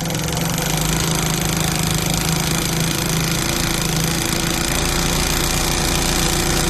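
Singer 111W industrial walking-foot sewing machine running steadily at high speed, set to about 2,000 stitches per minute, freshly cleaned and oiled. It cuts off at the very end.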